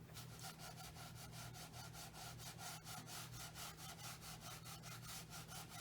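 Faint, rapid scrubbing of a paintbrush back and forth on paper, about six or seven strokes a second, over a low steady hum.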